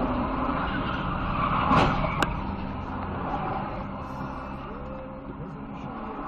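Steady road and engine noise as heard from inside a moving car, with a short loud noisy burst nearly two seconds in, followed by a sharp click.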